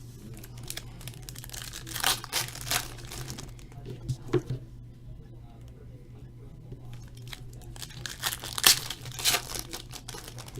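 Trading card packs and their wrappers being torn open and crinkled, in several separate short bursts of tearing and rustling.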